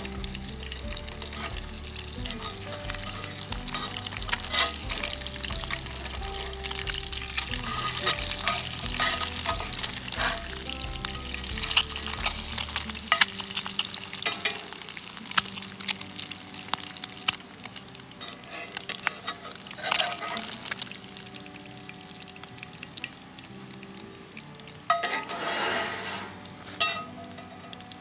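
Food sizzling in a cast iron skillet over a campfire, with a utensil stirring and scraping in the pan and many sharp clicks and pops. A louder hiss swells briefly near the end.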